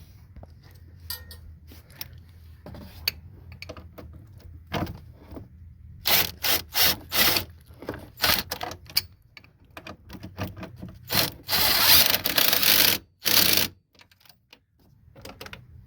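Hand work on a brake master cylinder and its steel brake lines: scattered clicks and metal knocks, then a run of short scraping bursts and a longer rubbing scrape in the second half as the line fittings are lined up and the cylinder is wrestled into place.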